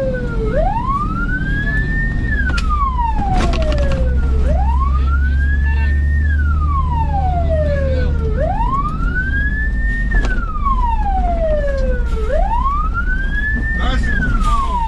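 Fire truck siren wailing, sweeping slowly up and falling back down about once every four seconds, over the low rumble of a heavy engine. A few sharp knocks are heard along with it.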